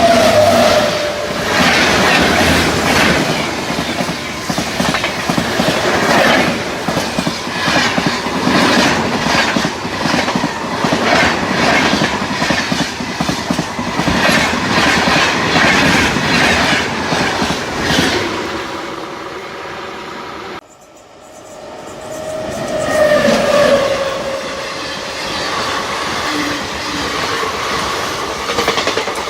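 A train passing close by at speed, its wheels clattering over rail joints in a fast, steady rhythm. The sound cuts off abruptly about two-thirds through, then train noise resumes with a short tone that slides slightly down.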